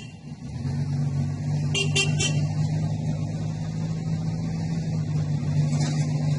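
Steady low drone of a running vehicle engine in road traffic, coming in about half a second in. A few quick high-pitched chirps or toots sound around two seconds in.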